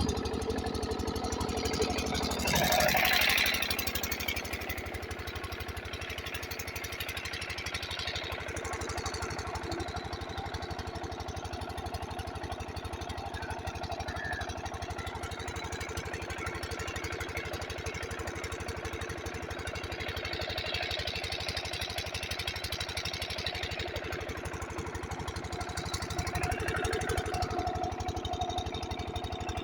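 Large Kranti diesel pump-set engine running steadily, driving a water pump. A brief louder noise comes in about three seconds in.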